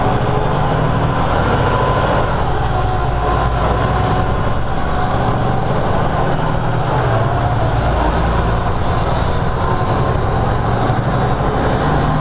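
Semi truck running on the highway, heard from inside the cab: a steady, loud low drone of diesel engine and road noise, with a faint wavering whine above it.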